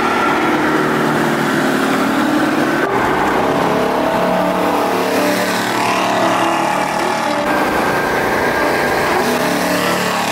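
Car engine running under way over steady road noise, its pitch rising and falling as it accelerates.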